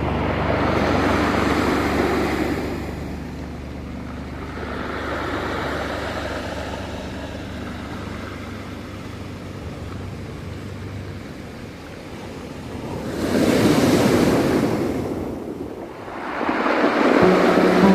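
Ocean waves breaking and washing up the shore in slow surges. The loudest wave breaks about two-thirds of the way through, and another swells in near the end.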